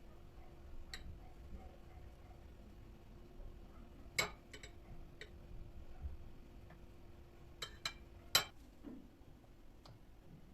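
A few sharp clicks and clinks of small hard objects being handled and set down, the loudest about four seconds in and two close together near eight seconds, over a faint steady hum.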